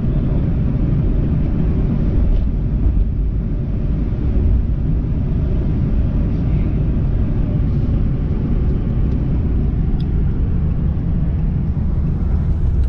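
Steady low rumble of engine and road noise inside a moving vehicle's cab.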